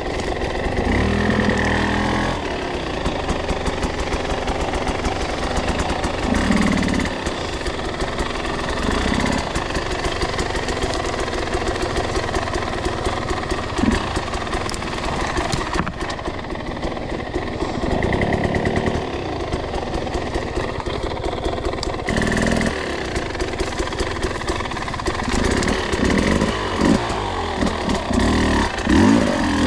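Two-stroke enduro dirt bike engine being ridden at low, lugging revs, short-shifted to keep traction on slick ground, with swells in throttle and several quick rev blips near the end.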